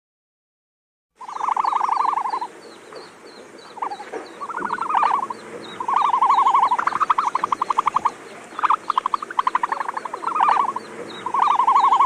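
Frogs calling, starting about a second in: a series of trills, each a rapid run of pulses lasting up to about a second, with faint, evenly repeated higher chirps behind them.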